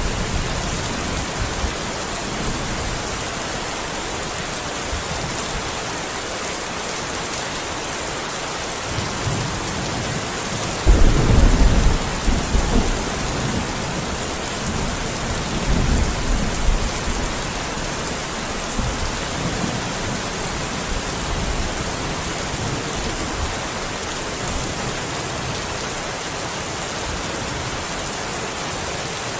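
Steady heavy rain falling, with rumbles of thunder, the loudest about eleven seconds in and a weaker one around sixteen seconds.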